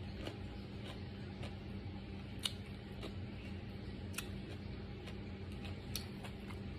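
Close-up chewing of food: a series of short crisp clicks and crunches about every half second to second, three of them sharper and louder, over a steady low hum.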